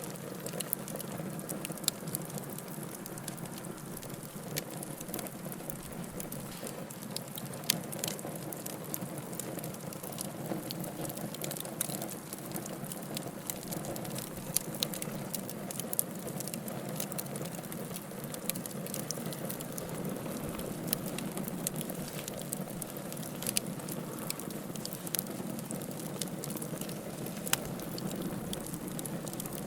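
Logs burning in a fireplace: a steady low hiss and rumble of flames with frequent sharp crackles and pops at irregular intervals.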